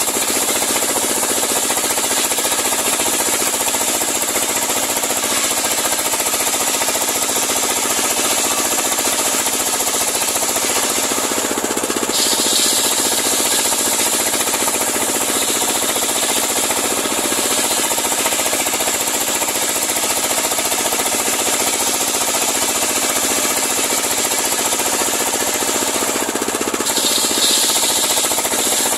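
Homemade engine-driven circular sawmill running steadily as it saws a large log. Its tone shifts briefly twice, about twelve seconds in and again near the end.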